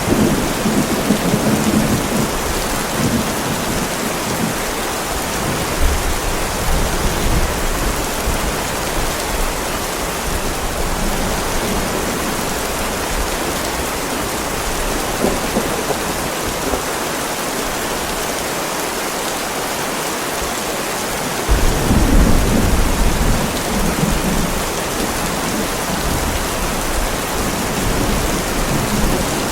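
Heavy rain falling steadily on a driveway, with low rolls of thunder. The loudest rumble comes about two-thirds of the way in.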